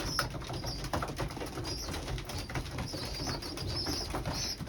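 Pigeons in a loft: low cooing, repeated short high-pitched chirps, and scattered light taps from the birds moving about.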